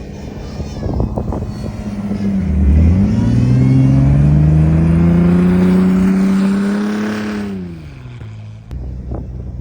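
A 4x4's engine revving under load. Its pitch climbs steadily for about five seconds, then drops back to a lower run near the end. A few scattered knocks come in the first two seconds.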